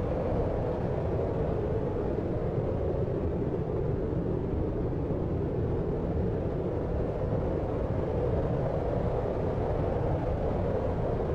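Steady deep rumbling noise with most of its weight low and no separate events: a continuous sleep-noise bed of the brown-noise kind.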